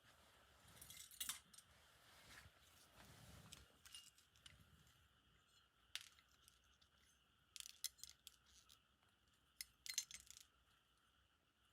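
Light clicks and small metallic clinks of a die-cast toy car's parts and small tools being handled during disassembly, coming in short scattered clusters, the loudest about a second in and again near ten seconds.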